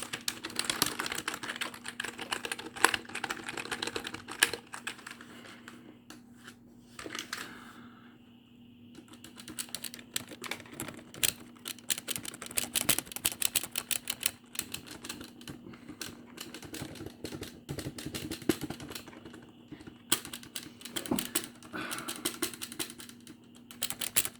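Rapid, dense typing and clacking on a computer keyboard, easing off to a quieter stretch about a quarter of the way in before picking up again.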